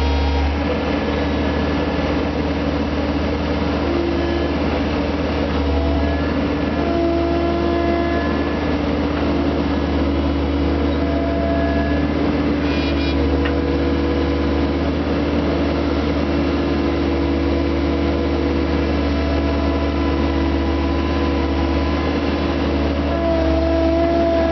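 Skid steer engine running steadily under a tree spade, with short higher tones coming and going several times over its steady hum.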